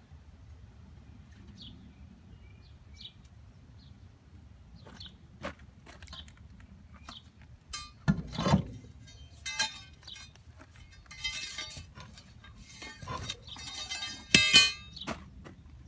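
Metal clinks and clanks from tools and wheel hardware being handled during a tractor wheel change, a run of separate knocks with a ringing edge, the loudest about halfway through and near the end. Faint bird chirps in the first few seconds.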